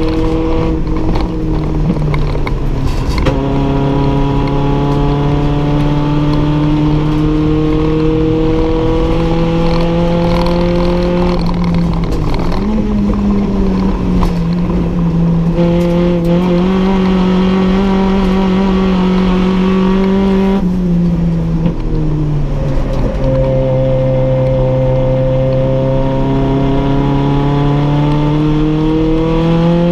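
Toyota 4A-GE 1.6-litre twin-cam four-cylinder racing engine heard from inside the stripped cabin under hard acceleration, its revs climbing steadily through each gear and dropping sharply at the upshifts, with a short jump in pitch around twelve seconds in and a brief lift off the throttle a little past twenty seconds.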